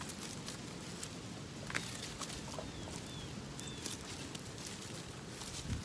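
Goat grazing, cropping and tearing grass in a scatter of short sharp clicks. A few faint bird chirps come about two to four seconds in.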